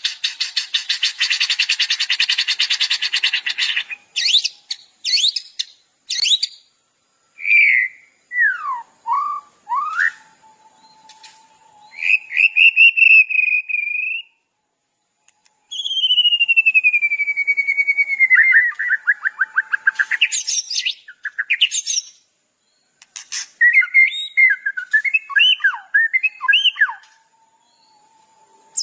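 Songbird song of the kind used as masteran: a fast buzzy trill for the first four seconds, then a run of varied whistled phrases, sweeping glides, one long falling whistle and quick chattering notes, broken by short pauses.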